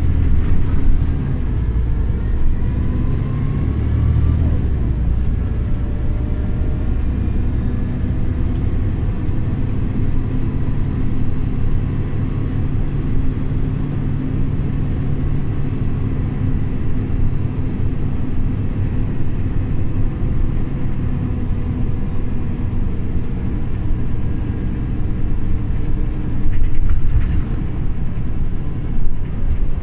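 Scania OmniLink CL94UB city bus under way: its engine runs steadily with road noise, the engine pitch rising in the first few seconds and shifting several times. A brief hiss near the end.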